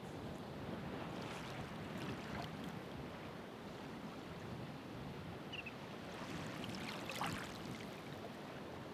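Ocean waves on a shore: a steady hiss of surf, with two louder washes of breaking water, one about a second in and another around six to seven seconds in.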